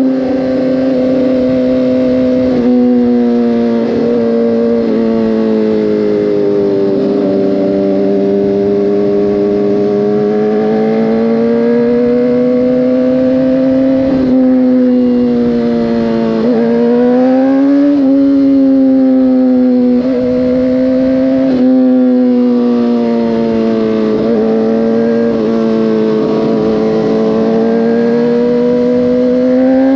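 Motorcycle engine running steadily under way, its pitch slowly rising and falling with the throttle. A few times it briefly drops and picks up again, and it climbs near the end.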